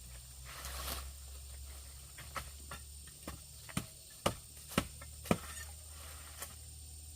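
A brief rustle, then a run of sharp knocks, about two a second through the middle, over a low steady hum.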